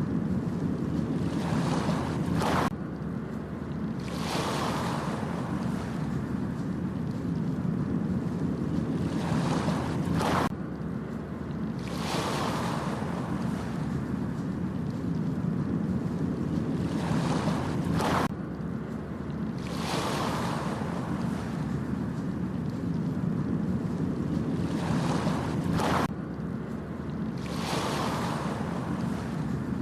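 Ocean surf washing onto a beach: a steady low rumble with a wave surging in about every four seconds. The sound repeats in an exact cycle of about eight seconds, dropping off suddenly at the end of each cycle.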